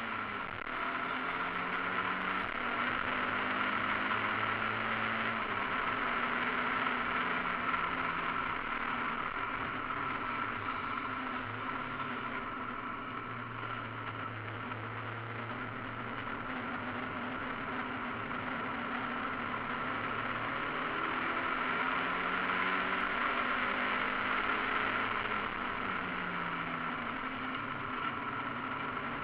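Mazda MX-5 race car's inline-four engine heard from inside the cockpit under racing load, its pitch climbing and dropping in steps every few seconds as the driver works through the gears, over a steady rush of road and wind noise.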